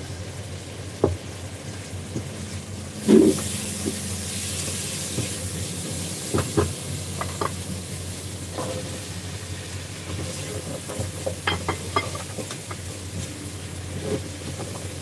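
Food sizzling in a hot pan. The sizzle swells with a thud about three seconds in as sliced carrots are scraped in off a plate. Sharp clinks and knocks of a spatula against the pan and plate recur through the rest.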